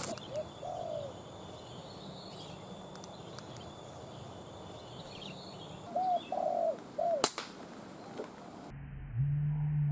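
Spotted doves cooing in short low phrases, with a single sharp crack about seven seconds in. Near the end a low steady hum starts.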